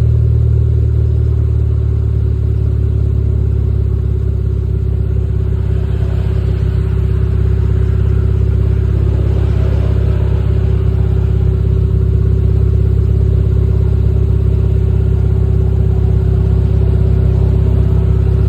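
Hyundai Elantra MD's four-cylinder engine idling steadily at its exhaust shortly after a cold start.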